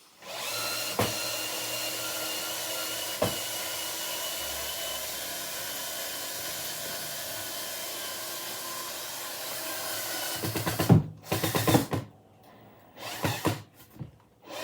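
A small electric motor runs steadily for about ten seconds and stops, followed by a quick run of knocks and clatter and then a few more knocks.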